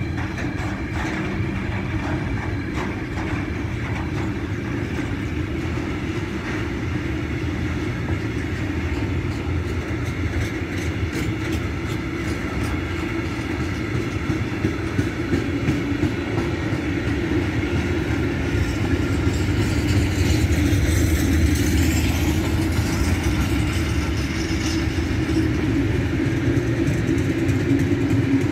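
Freight train rolling past: a steady rumble of wheels on rail, with rapid clicking over the rail joints early on. It grows louder in the second half.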